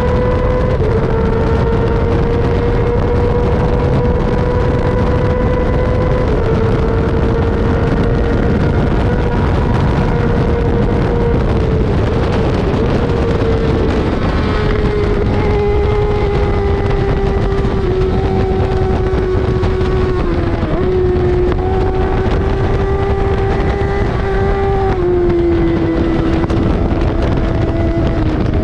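Racing sportbike engine held at high revs under hard riding, with heavy wind rush on the microphone. The engine note drops in short steps several times at gear changes, dips lower in the second half, and climbs again near the end.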